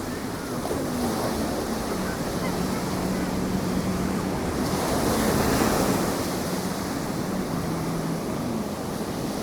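Ocean surf breaking and washing up the beach, with wind buffeting the microphone; the surf swells louder about halfway through. A faint steady low hum runs beneath it.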